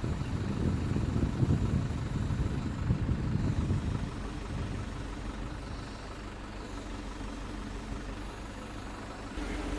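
An engine running steadily at idle, a low hum with rougher, louder patches in the first few seconds. It jumps up in level near the end.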